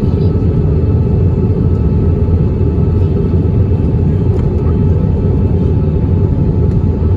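Steady low rumble inside the cabin of an Airbus A320 airliner, the noise of its jet engines and airflow.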